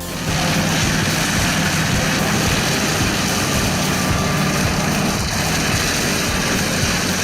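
A heavy machine's engine running steadily at working speed, with a dense noise spread over it, starting abruptly at the opening.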